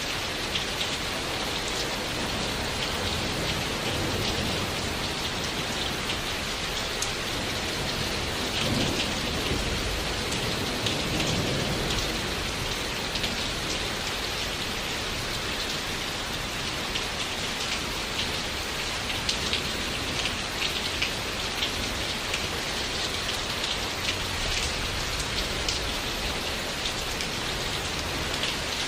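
Steady rain falling, with many individual drops ticking sharply over the even hiss. A low thunder rumble swells and fades between about four and twelve seconds in.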